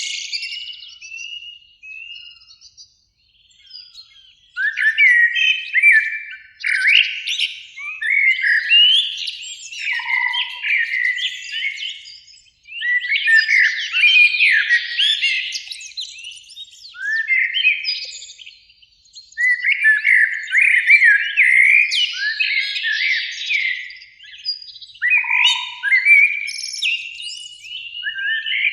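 Eurasian blackbirds singing: a run of warbling song phrases, each lasting one to a few seconds with short pauses between them, after a brief lull in the first few seconds.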